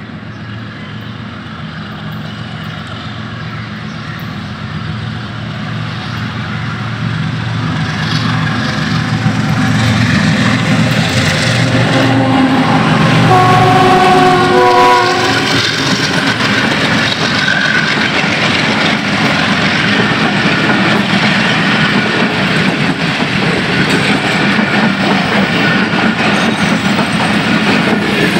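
Pakistan Railways GEU-40 diesel-electric locomotive approaching with a low engine rumble that grows steadily louder. It gives a horn blast of several tones at once, lasting about two seconds, as it reaches the camera. The passenger coaches then roll past with a steady clatter of wheels over the rail joints.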